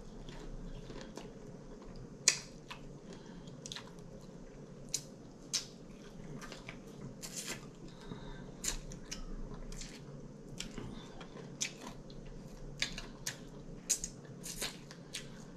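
Close-miked chewing of air-fried chicken wings, gnawing meat off the bone, with frequent short wet smacks and clicks from the mouth and lips; one sharper smack comes about two seconds in.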